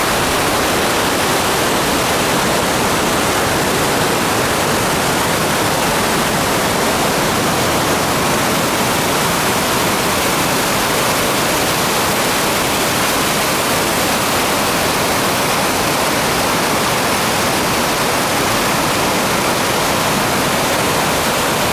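Loud, steady rush of a waterfall, an unbroken noise of falling water with no change through the stretch.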